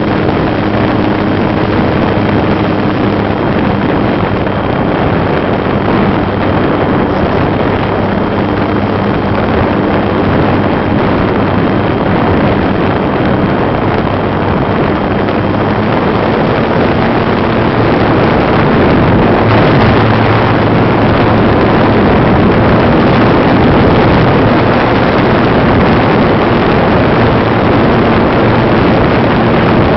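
Loud, steady drone of a GWS Slowstick RC model plane's electric motor and propeller, heard up close from the onboard camera and mixed with rushing wind. It gets a little louder and shifts in pitch about two-thirds of the way through.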